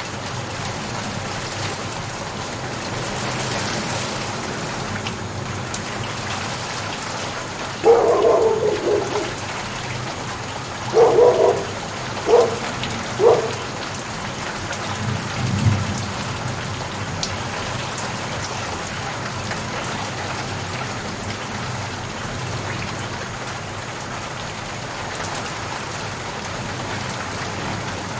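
Steady rain falling. Near the middle come four short, louder sounds in quick succession, the first two longer, then a brief low rumble.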